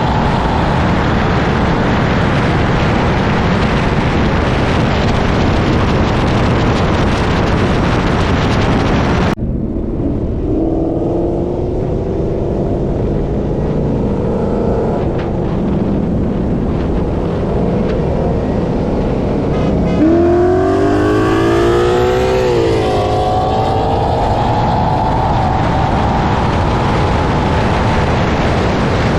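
Ford Mustang GT's 5.0 L Coyote V8 at full throttle, heard from inside the car, with heavy wind noise for the first third until it cuts off abruptly. The engine note then climbs again, and about two-thirds in it rises steeply through quick upshifts of the 10-speed automatic before settling at high speed.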